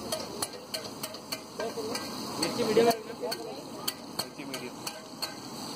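Chopped green capsicum sizzling in oil on a large flat pav bhaji griddle, while a metal spatula stirs it with repeated sharp scraping clicks against the griddle surface.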